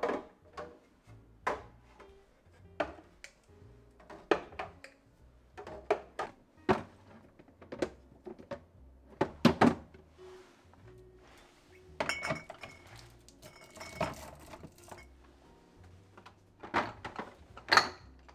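Irregular knocks, thunks and clinks of kitchen items being handled and set down, over soft background music.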